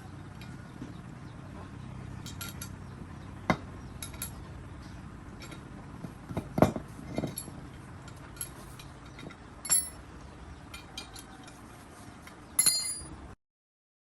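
Scattered metallic clinks and knocks of tools and metal parts being handled, with the sharpest strikes about three and a half, six and a half and nearly ten seconds in, and a burst of clinks near the end. The sound then cuts off abruptly to silence.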